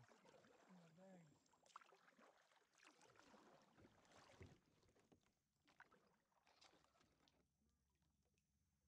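Faint kayak paddling: the paddle dips and drips in the water with scattered small splashes and knocks, busiest in the first half and thinning out toward the end.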